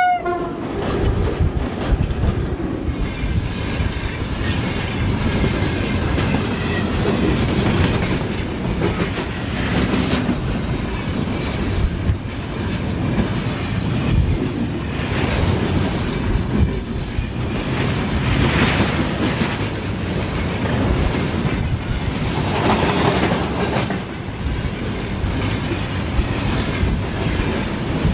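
A long freight train rolling past, its wagons' wheels rumbling steadily and clattering over the rail joints. The last of the locomotive's horn cuts off right at the start.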